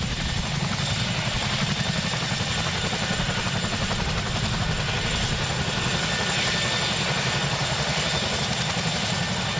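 CH-47F Chinook tandem-rotor helicopter with GE T408 turboshaft engines running: rapid low rotor beating under a steady high-pitched whine.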